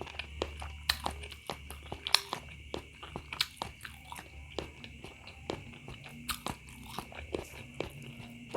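Close-up chewing and biting of spicy beef meatballs (bakso), an irregular run of sharp wet mouth clicks and smacks.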